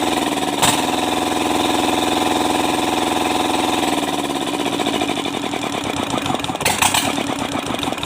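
Kubota Z751 two-cylinder diesel engine running steadily, then shut off about four seconds in: its pitch falls and the firing strokes slow as it winds down to a stop. A sharp knock comes near the start and a short clatter near the end.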